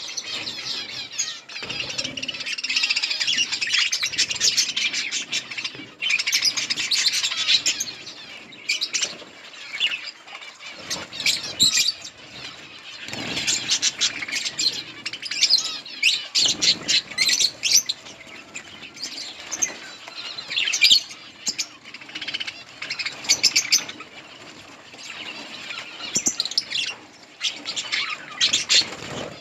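A flock of budgerigars chirping and chattering, many overlapping calls at once, busiest in the first eight seconds and coming in bursts after that.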